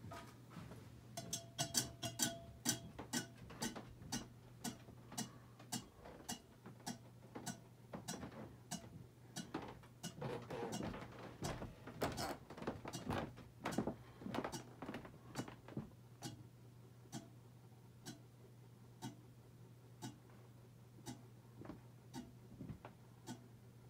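Harbor Breeze Armitage 42-inch ceiling fan running with a steady low hum and repeated light ticking clicks. The clicks come thick and irregular at first, then thin out to about one a second near the end.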